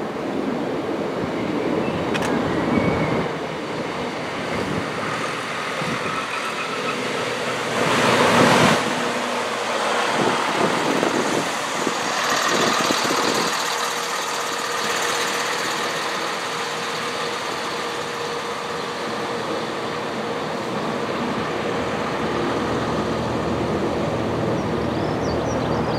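A train running through on the line: a continuous rumble and rush of wheels on rail with scattered clatters and one louder swell about eight seconds in. A steady whine joins about halfway through and holds.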